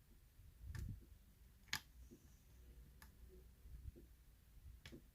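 Faint clicks of a lock pick working the pins inside a pin-tumbler challenge lock during single-pin picking: four sharp ticks spaced irregularly, the second the loudest.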